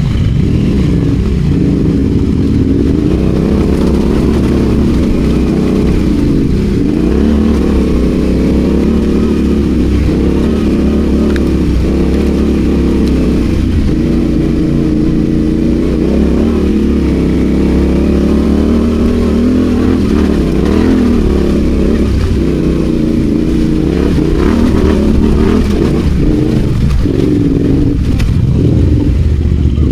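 Adventure motorcycle engine running as the bike is ridden off road, its pitch rising and falling continuously with the throttle.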